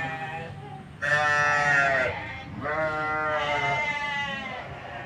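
Farm animal bleating: a loud long call about a second in, then a second, longer call that fades toward the end.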